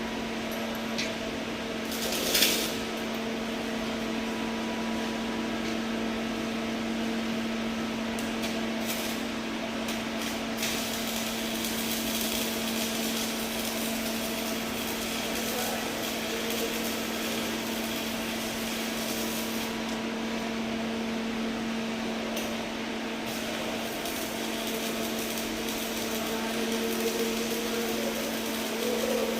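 Arc welding: a continuous crackling hiss from the welding arc over a constant machine hum, with one short knock about two seconds in.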